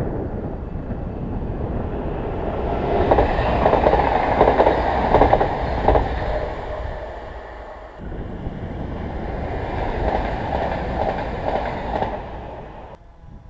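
Passenger trains passing on the line. The noise swells to its loudest about three to six seconds in and dips near eight seconds. It swells again, then cuts off suddenly about a second before the end.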